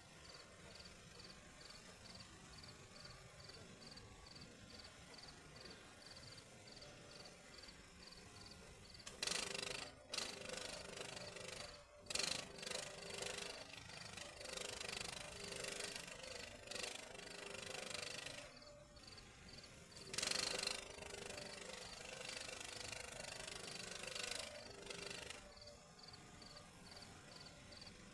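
Arc welding on steel rebar: several stretches of crackling, hissing arc lasting a few seconds each, starting about nine seconds in and stopping near the three-quarter mark. Crickets chirp steadily, about two pulses a second, throughout.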